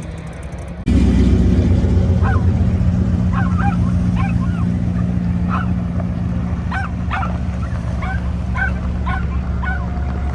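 A steady low engine drone that starts abruptly about a second in, with short, high yips repeating irregularly over it.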